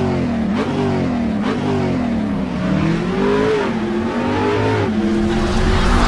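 An engine revving, its pitch rising and falling again and again over several seconds.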